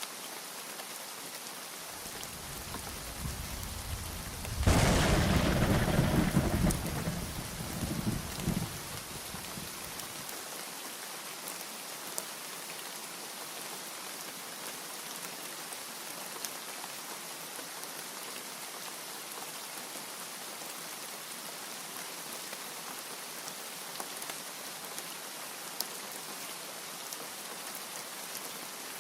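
Steady rain with one peal of thunder: a low rumble builds, breaks into a loud clap about five seconds in, and rolls away over the next few seconds, leaving the rain alone.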